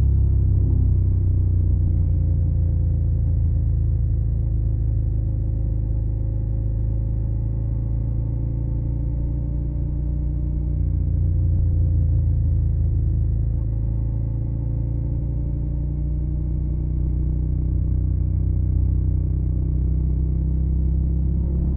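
Suzuki SV650's V-twin engine running through a Yoshimura Alpha carbon exhaust, a steady low rumble whose pitch drifts gently up and down.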